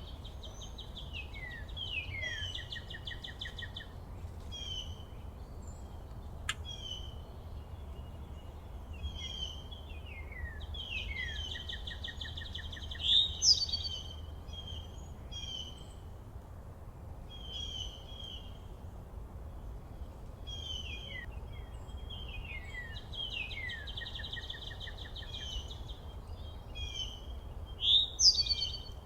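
Songbirds singing: repeated phrases of quick falling chirps running into a fast trill, with a louder call about every fifteen seconds, twice in all. A steady low rumble sits underneath, and there is a single sharp click about six seconds in.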